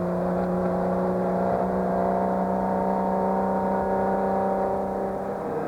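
Classic rally car's engine running at steady revs on an uphill climb: an even, held engine note that eases and drops slightly in pitch near the end.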